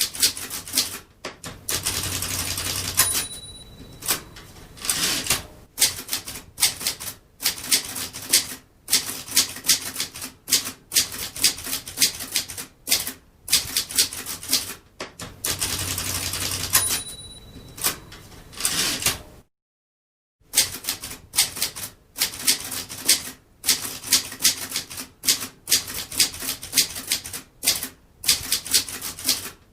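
Typewriter being typed on: quick, uneven clacks of the keys striking. Twice a longer rattle comes with a short bell ding, the margin bell and carriage return of the machine.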